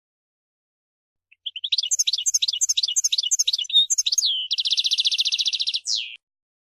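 European goldfinch singing one phrase. It starts about a second and a half in with a run of quick, sweeping twittering notes, moves into a fast buzzy trill, and ends on a single falling note, then stops abruptly.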